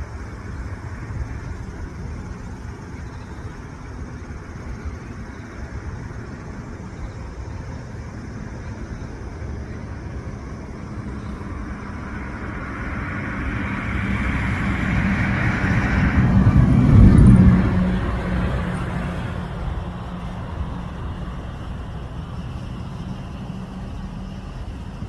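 Road traffic: a steady low rumble, with one vehicle growing louder over several seconds, passing close about two-thirds of the way through, then fading away.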